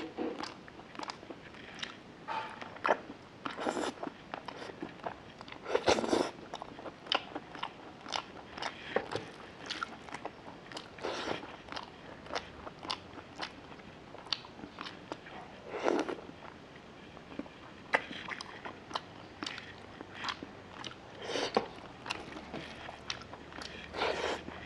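Close-up mouth sounds of a person eating rice and chicken curry by hand: many quick wet chewing clicks and lip smacks, with a few longer, louder mouthfuls about six seconds in, at sixteen seconds, and near the end.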